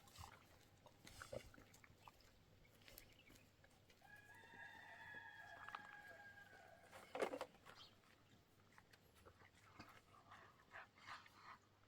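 Rooster crowing once, faintly: one long held call of about two and a half seconds, starting about four seconds in. A short sharp sound a little after seven seconds is the loudest moment, amid scattered faint clicks.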